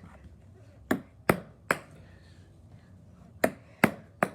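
A ping-pong ball bouncing on a hard surface: three sharp clicks about 0.4 s apart about a second in, then another run of three about two and a half seconds later.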